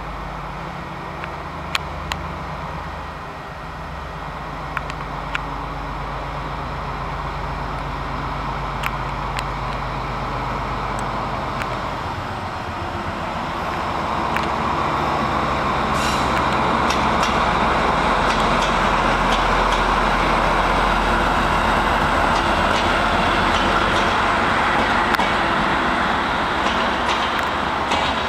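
Train at a railway station. A low steady machine hum is heard first, then about halfway through a louder rushing of a train on the rails builds up and holds, with scattered sharp clicks from wheels and rail joints.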